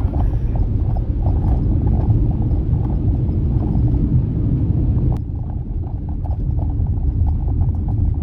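Car driving along a road: a steady low rumble of engine and tyre noise with many small irregular knocks, and one sharp click about five seconds in.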